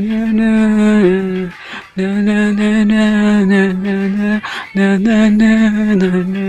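Turkish pop song playing, a singing voice holding long, steady notes of a second or more each with short breaks between them.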